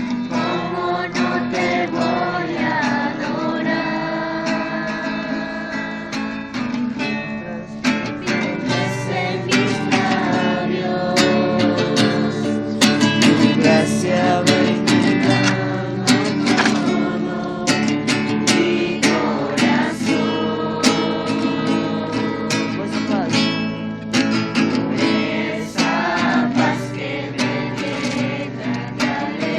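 A group of voices singing together to a strummed acoustic guitar.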